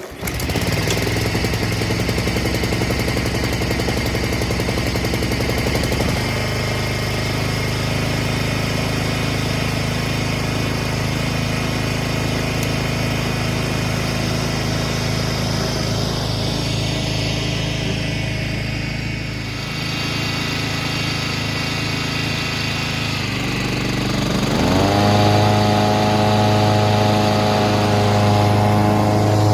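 Honda HRX petrol lawnmower engine running steadily. Its pitch rises about 24 seconds in and holds higher.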